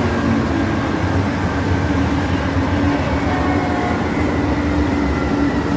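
BNSF GE Dash 9 (C44-9W) diesel locomotives leading a freight train past at speed: the engines' steady drone with a low hum, under continuous wheel-on-rail noise. The sound stays loud and even throughout.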